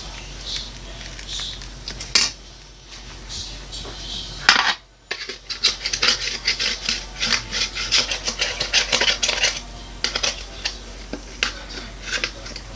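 A utensil clinking and scraping against a bowl while mixing homemade slime: quick irregular clicks and scrapes, busiest in the middle, with two louder knocks in the first half.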